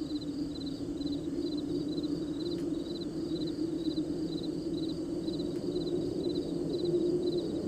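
Crickets chirping in an even rhythm, about two chirps a second, over a steady low drone.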